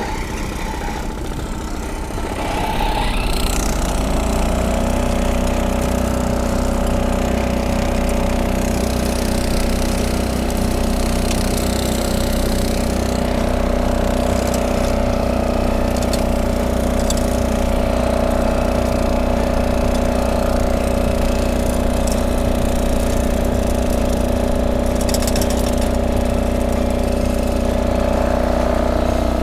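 Small engine of a walk-behind rotary tiller revving up about three seconds in, then running steadily under load as it tills the soil.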